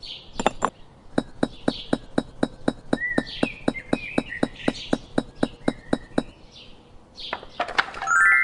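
Rapid, even clinking taps, about four to five a second for around five seconds, with birds chirping behind them.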